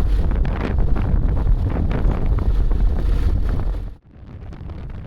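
Wind buffeting the microphone over a heavy low rumble with scattered knocks, cutting off abruptly about four seconds in to a quieter steady rush.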